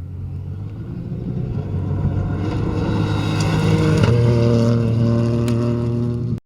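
Ford Fiesta Rally4's turbocharged three-cylinder engine running hard at steady high revs as the rally car approaches, growing louder, with a few sharp cracks along the way. The sound cuts off suddenly at the end.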